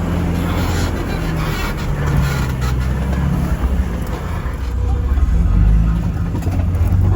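Off-road rig's engine running at low revs as it crawls over a rough trail, heard from inside the cab. The engine note swells a little after about five seconds.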